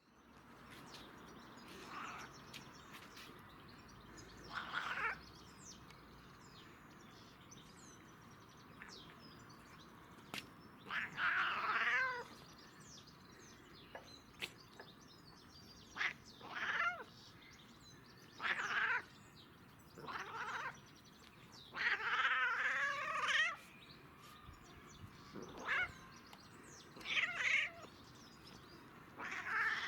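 Domestic cat meowing in about ten separate drawn-out calls, some wavering in pitch, while high on catnip.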